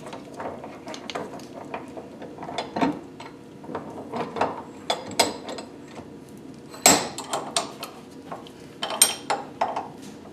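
Metal hand tools clinking and clattering against engine parts while bolts are worked loose, a string of small clicks with sharper metallic knocks about 7 and 9 seconds in.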